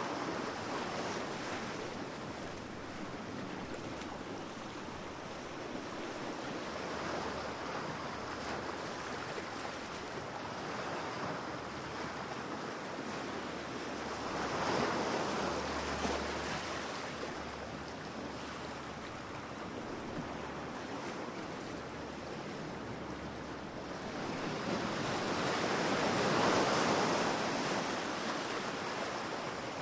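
Sea surf washing onto a beach: a continuous rush of waves, with one wave swelling louder about halfway through and a bigger one breaking near the end.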